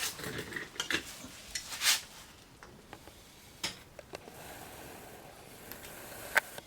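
Irregular light metallic clinks and knocks from tools and parts being handled during brake work, about half a dozen, the loudest about two seconds in and another sharp one near the end.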